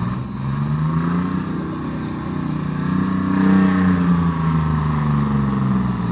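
Tractor engine working hard, its pitch climbing steadily for about three seconds and then sinking back down. It is loudest near the top of the climb.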